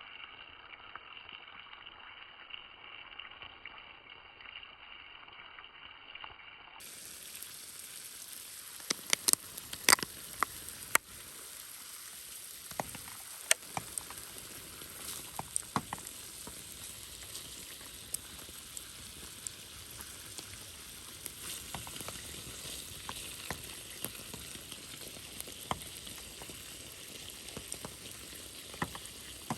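Pork and kimchi frying in a pan over a wood campfire: a steady sizzle with frequent sharp pops and crackles, loudest around ten seconds in. It starts suddenly about seven seconds in, after a quieter, muffled stretch.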